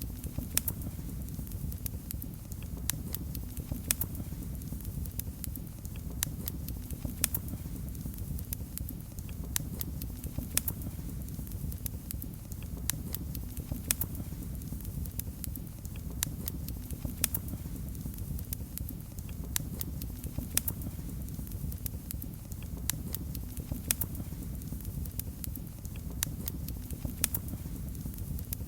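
Wood fire in a fireplace crackling, with frequent sharp irregular pops over a steady low rumble of burning.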